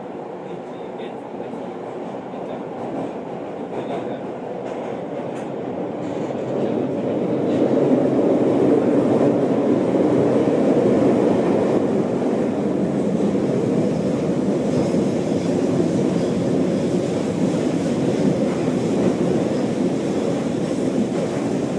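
Running noise of an Osaka Metro Midosuji Line 31 series subway train, heard from inside the passenger car: a dense wheel-and-rail rumble with some clickety-clack. It grows louder over the first several seconds and then holds steady.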